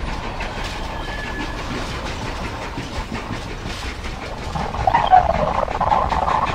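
Steady running noise of a St. Louis MetroLink light-rail car from inside the car, with faint repeated clicks from the wheels on the track. About two thirds of the way through, a louder shrill squeal joins in and carries on to the end.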